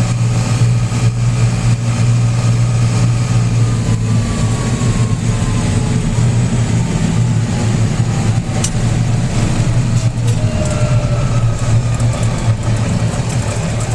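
Tractor engine running steadily, heard from on board the tractor, with a faint whine that slides slowly down in pitch in the middle of the stretch.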